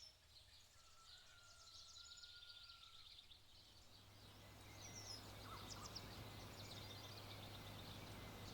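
Near silence: faint room tone with a steady low hum, a soft hiss that grows a little about four seconds in, and faint high bird chirps throughout.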